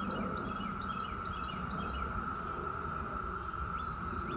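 Chorus of many cicadas: a steady, high-pitched drone that holds one pitch throughout. A few short bird chirps are heard over it in the first two seconds.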